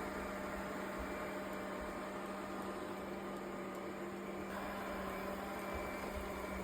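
Robot vacuum cleaner running: a steady motor hum with a constant low tone.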